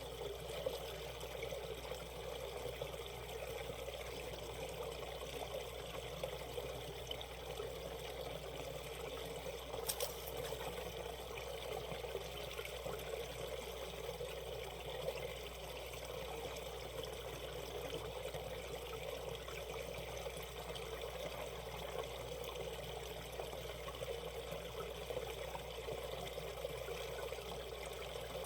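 Valley stream water flowing and trickling over rocks in a steady, unbroken babble, with one faint click about ten seconds in.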